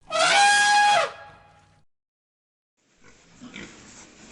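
A loud, high-pitched animal call lasting about a second, held steady and dropping in pitch as it ends. After a short silence, fainter rustling and snuffling noise begins near the end.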